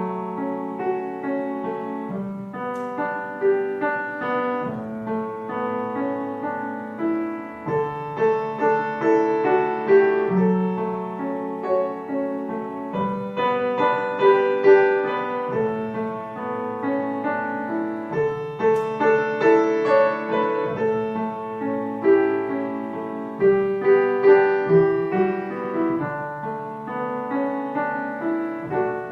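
Ambient piano music: a melody of struck notes over held low notes.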